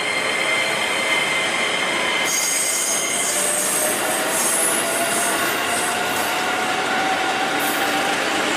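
KRL electric commuter train running past, with a tone slowly rising in pitch throughout and high wheel squeal between about two and six seconds in.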